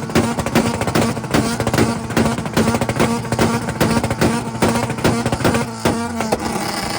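Car engine held on a two-step launch limiter: a steady high note with rhythmic popping about three times a second, cutting out a little before the end.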